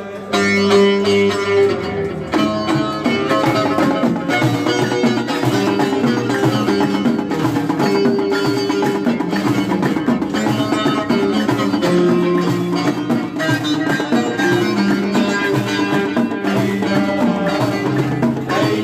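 Traditional folk music played live: plucked string instruments over drums and hand percussion, continuous and loud.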